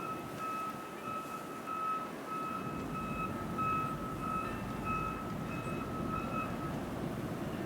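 A vehicle's backup alarm beeps over and over in a steady rhythm, then stops about seven seconds in, over a steady low rumble of wind and traffic.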